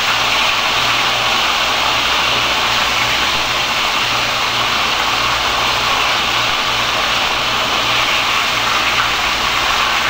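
Breaded steak frying in hot grease in a cast-iron skillet: a steady sizzle with no breaks.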